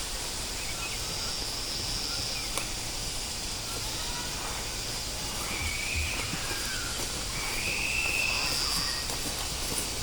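Steady outdoor background hiss with a few faint, high-pitched calls, each about a second long, around a second and a half in and again toward the second half.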